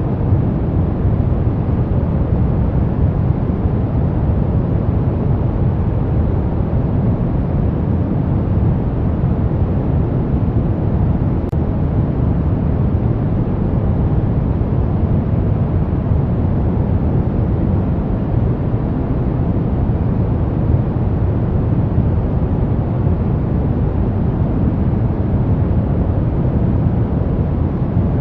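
Brown noise: a steady, even hiss weighted heavily to the low end, like a deep rumble, with no changes in level or pitch.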